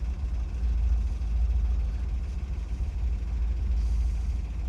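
1963 Corvette's 327 small-block V8, the 340 hp solid-lifter version, idling steadily with a low, even rumble.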